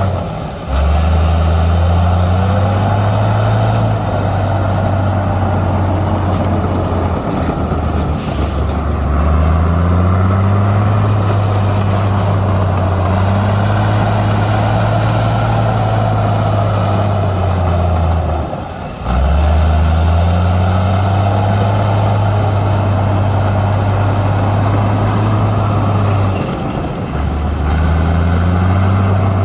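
Heavy diesel engine of earthmoving machinery running under load, its pitch rising and falling as it works. There are brief drops in level just after the start, about two-thirds through, and near the end.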